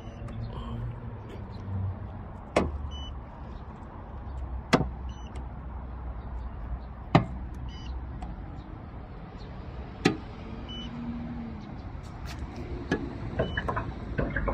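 A car's 2.0-litre engine idling with a steady low rumble, with four sharp clicks about two and a half seconds apart and a few faint short beeps over it.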